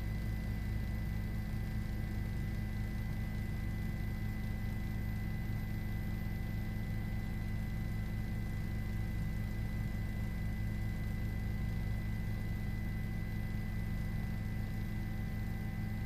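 Steady low hum with a few faint constant whining tones above it and a light hiss, unchanging throughout, with no distinct events.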